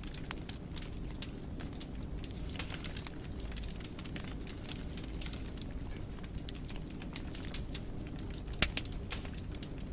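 Wood fire burning in a fireplace: a steady low rumble of flames with irregular crackles and snaps, and one loud sharp pop a little before the end.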